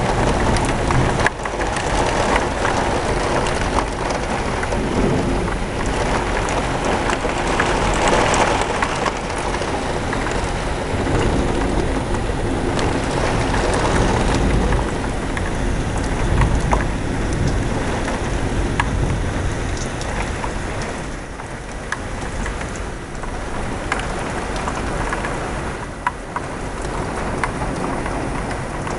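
Heavy rain pouring down during a severe thunderstorm, with scattered sharp drop ticks and low rumbles of thunder. The downpour eases a little about two-thirds of the way through.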